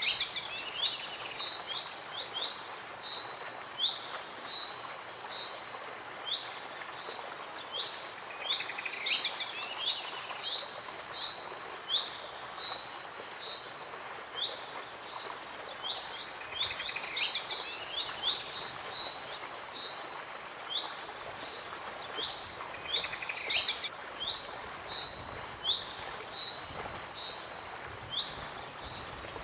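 Songbirds chirping and trilling over a steady hiss. The same run of calls repeats about every eight seconds.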